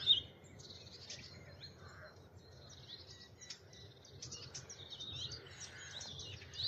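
Several songbirds singing at a distance: faint, scattered chirps and short song phrases from a mix of birds, over a low steady background rumble.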